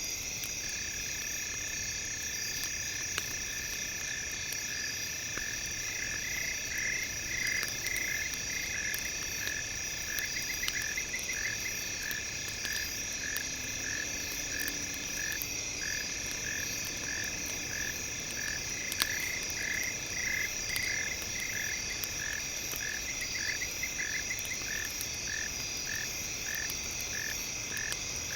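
Campfire ambience: sparse crackles over steady high-pitched tones, with a short chirping call repeating about one and a half times a second and brief trills now and then, like night-time frogs or insects.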